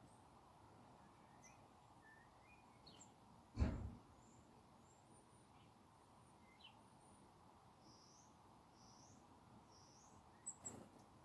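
Small birds giving faint, short, high chirps scattered throughout. A single loud thump about a third of the way in, and two sharp clicks near the end.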